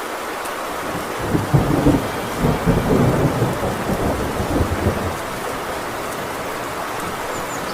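Heavy rain on a tin roof with a steady hiss. About a second in, a deep roll of thunder swells up, rumbles for a few seconds and fades away.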